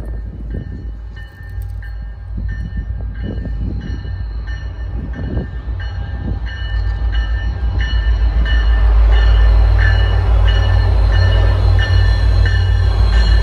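MBTA commuter train's diesel locomotive approaching, its deep rumble growing steadily louder, with a bell ringing about twice a second.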